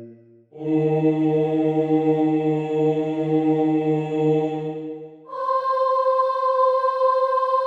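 Choirs singing long held notes, one after another: a low sustained note, then after a short break a markedly higher one from about five seconds in. These are the notes to be compared for pitch.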